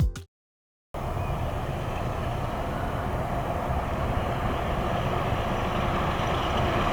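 Rumble of an approaching train, steady and slowly growing louder. It starts about a second in, after the tail of a music track and a short gap of silence.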